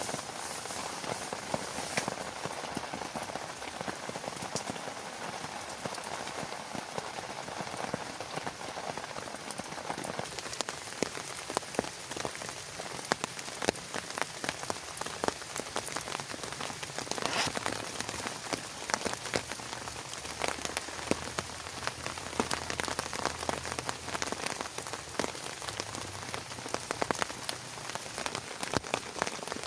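Heavy rain falling steadily, with many sharp individual drops pattering on a nearby surface. A faint low hum comes in about two-thirds of the way through.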